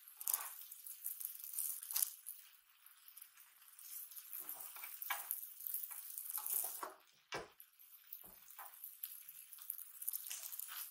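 Okonomiyaki and yakisoba noodles frying on an electric hot plate, a soft steady sizzle, with several scrapes and taps of spatulas against the griddle plate as the noodles are spread and the pancakes moved.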